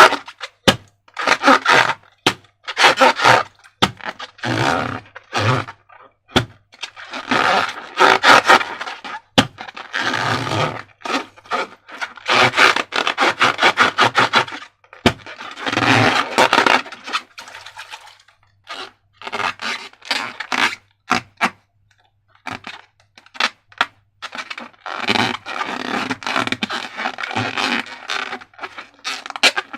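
Slime and transparent balloons being worked by hand: repeated bursts of scraping and crackling, separated by short pauses.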